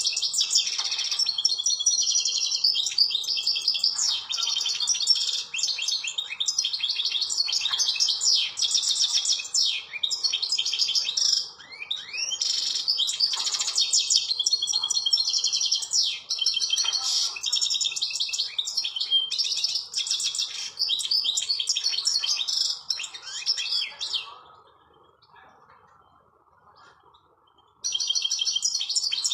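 European goldfinch singing a fast, continuous twittering song. It breaks off for about three seconds near the end, then starts again.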